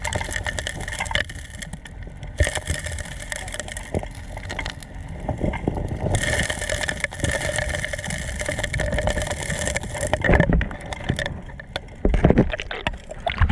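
Small engine running steadily, with irregular knocks and clatter over it.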